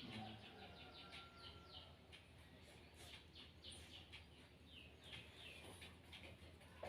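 Faint bird chirping: a scattered series of short, falling chirps over near silence.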